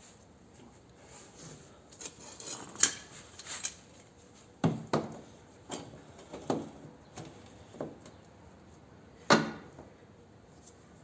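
Light clicks and rubbing about two seconds in, then a string of sharp knocks and clinks about a second apart, the loudest near the end, like hard objects being handled and set down during hand work.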